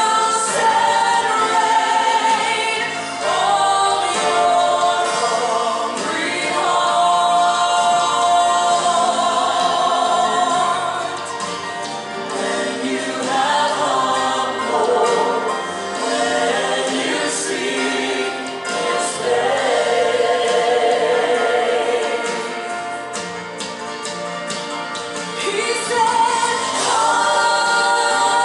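A choir singing a slow gospel worship song, with long held notes over an accompaniment.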